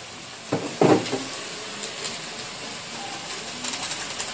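Pork and bitter gourd (ampalaya) frying in an aluminium wok, a steady sizzle. About a second in, two loud knocks as the glass wok lid is taken off and set down. Crackling picks up near the end.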